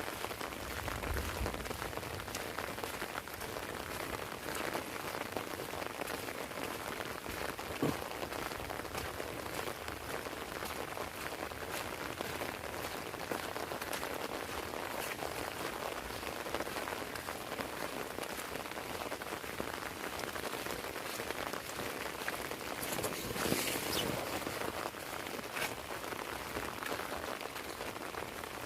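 Heavy rain falling steadily, with drops striking an umbrella canopy overhead as a constant hiss dotted with sharper individual drop hits. A brief louder spell of drops comes about three-quarters of the way through.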